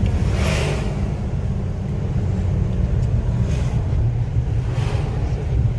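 A car driving along a road: a steady low rumble of engine and tyres with wind noise, and a few brief rushes of hiss.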